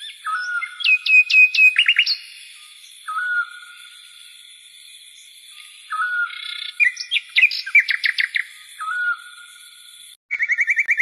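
Songbird singing: a short whistled call repeated about every three seconds, between bursts of rapid falling notes, over a steady high insect-like drone.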